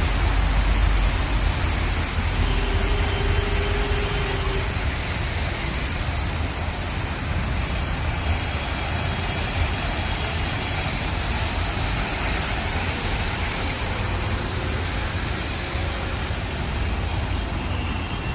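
Water rushing steadily, a continuous even noise with a strong low rumble.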